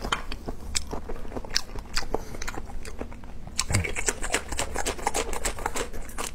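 Close-miked biting and crunchy chewing of a raw green chili pepper. Sparse crisp crunches at first, then a dense run of crunches from about halfway.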